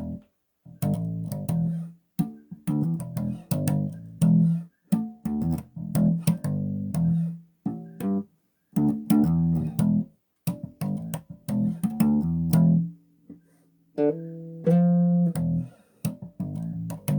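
Bass guitar played solo: short phrases of plucked notes separated by brief pauses. The player hears it as slightly out of tune, needing a string or two adjusted.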